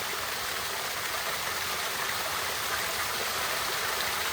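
Small waterfall: water pouring and splashing steadily over rocks.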